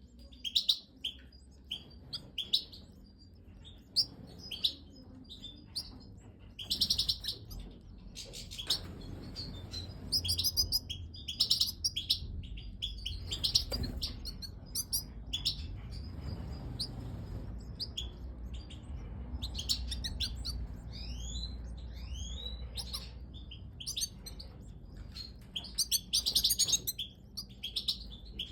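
European goldfinches chirping and calling: short, bright notes in quick runs with pauses, some of them quick sweeping notes. A low rumble runs underneath and is louder through the middle.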